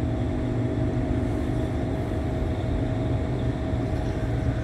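Passenger train running, heard from inside the carriage: a steady low rumble with a steady hum above it.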